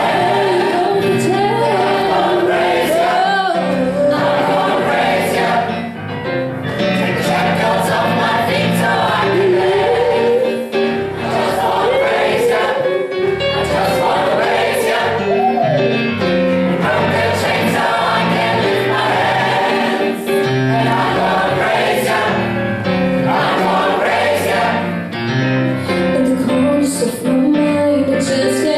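A choir singing a gospel-style song with instrumental accompaniment.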